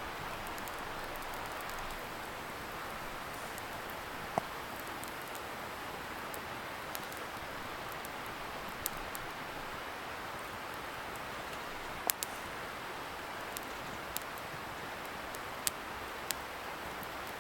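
Wood campfire crackling, with scattered sharp pops every second or so, the loudest about four and twelve seconds in, over a steady hiss from a distant river.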